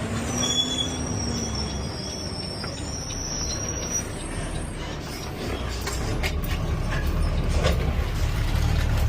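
Garbage truck running, heard from the cab: a steady low engine rumble that grows louder over the second half, with a thin high-pitched squeal during the first few seconds.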